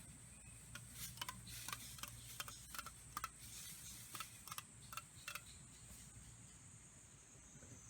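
A quiet run of irregular light clicks and taps, about a dozen over a few seconds, over a steady high-pitched hiss.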